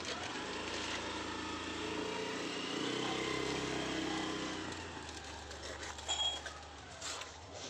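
A motor vehicle's engine running, growing louder about two to three seconds in and fading away after about five seconds, as when a vehicle passes by.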